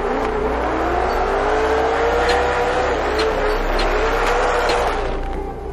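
Drift car's engine revving hard as the car slides through a drift, its pitch rising and falling several times, with a few sharp clicks.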